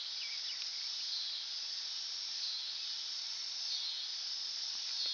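Steady high-pitched background hiss, even throughout.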